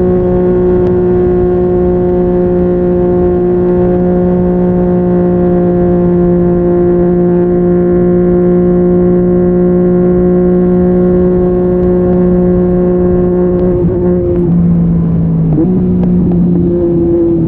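Yamaha MT-09's three-cylinder engine through an Akrapovic exhaust, running at a steady pitch while cruising. About fourteen seconds in, the note drops briefly and then comes back up.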